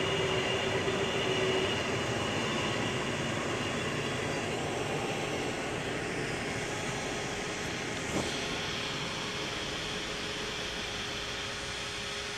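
Rhaetian Railway electric train running along the track: a steady running noise with a faint hum that slowly fades as the train moves away. A single click about eight seconds in.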